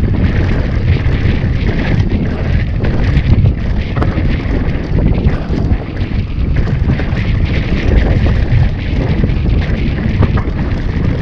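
Wind rushing over the microphone during a downhill mountain-bike run, under a low rumble with scattered knocks and rattles from the bike over rough ground.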